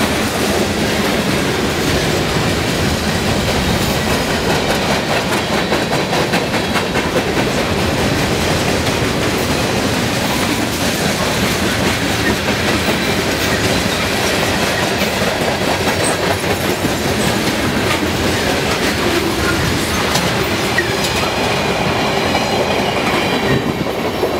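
Train passing close by: railcar wheels rolling along the rails in a continuous loud rumble, with steady clickety-clack of wheels crossing rail joints.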